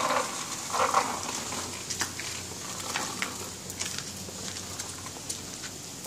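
Steady hiss of rain falling on a wet concrete rooftop, with scattered drips and taps. Two short louder sounds come in the first second.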